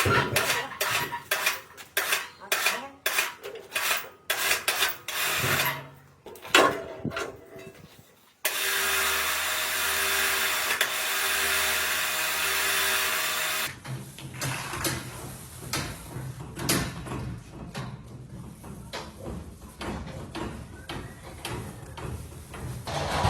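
Metal parts and tools knocking and clanking sharply for about eight seconds, then a steady machine noise with a faint hum for about five seconds, which cuts off into quieter, rapid metallic clatter and scraping.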